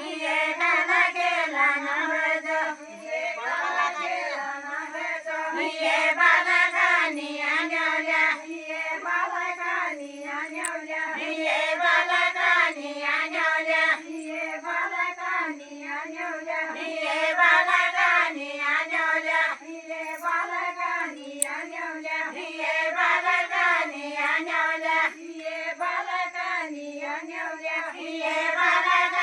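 High-pitched voices singing a folk song, the melody bending and going on without a break.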